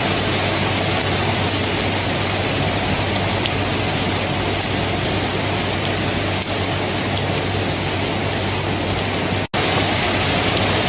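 Steady heavy rain falling, an even hiss with faint scattered drop ticks. About nine and a half seconds in the sound cuts out for a split second and then resumes.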